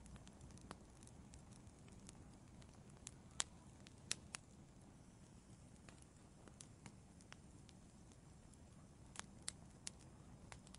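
Wood fire crackling in an outdoor fireplace: scattered sharp pops and snaps over a faint low rumble, the loudest pops a little over three and four seconds in, and a quick run of them near the end.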